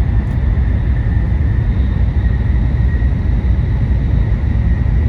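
Steady running noise of a Nishi-Kyushu Shinkansen N700S train heard from inside the passenger cabin: a loud, even low rumble with a faint high whine over it.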